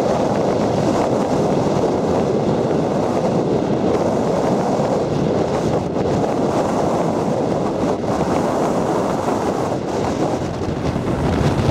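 Strong headwind blowing straight onto the microphone: a loud, steady rush of wind noise, heaviest in the low range.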